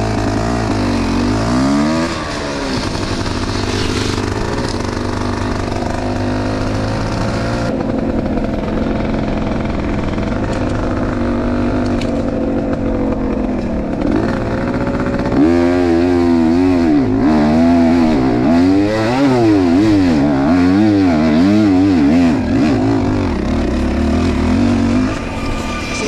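Enduro motorcycle engine running loud, its pitch rising and falling with the throttle; from a little past halfway it revs up and down in quick repeated swells.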